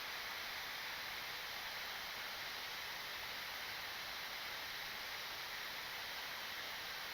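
Steady, even hiss of airflow and air-conditioning noise on a Boeing 777-300ER flight deck in descent.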